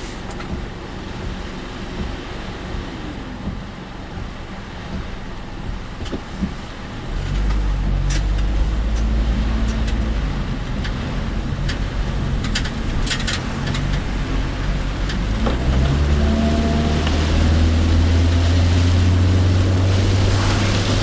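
Car engine and road noise heard from inside the cabin. About a third of the way in the engine note grows louder, and near the end it climbs in pitch as the car speeds up, with a few scattered sharp clicks in between.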